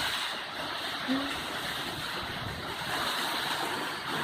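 Storm wind and rain rushing steadily.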